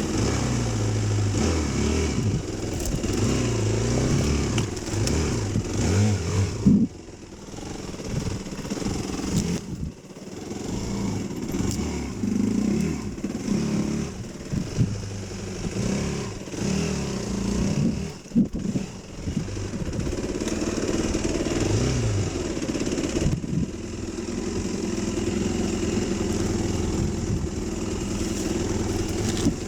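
Dirt bike engine running under a rider, its pitch rising and falling with the throttle, dropping away briefly several times as the throttle is closed, then holding steadier near the end.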